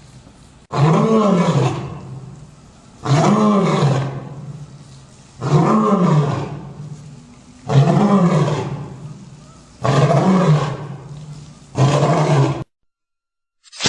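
Lion roar sound effect, repeated six times about two seconds apart. Each roar rises then falls in pitch and trails off. The sound cuts off abruptly near the end.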